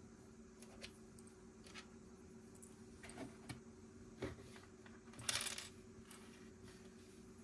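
Plastic Lego pieces being handled: scattered small clicks, then a short clatter of pieces a little past five seconds in, over a faint steady hum.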